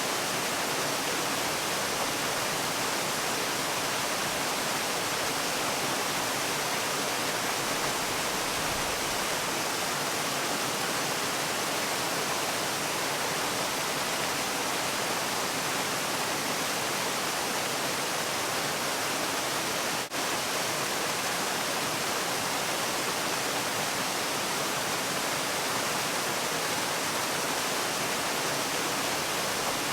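Falling water, as from a waterfall, making a steady, even hiss across the whole range with no rhythm or change, broken by one momentary dropout about two-thirds of the way through.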